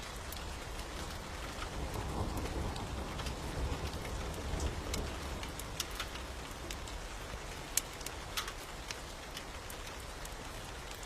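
Steady rain with a low rumble of distant thunder swelling about two seconds in and fading by about five seconds, with scattered sharp clicks over it.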